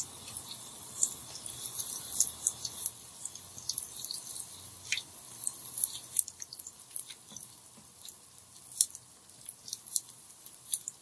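Small stuffed qatayef deep-frying in hot oil: a steady hiss with many scattered pops and crackles, thinning out in the second half.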